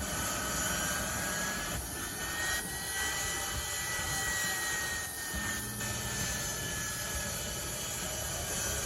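An aircraft engine drones in flight, with a thin whine that rises slightly in pitch and then falls away.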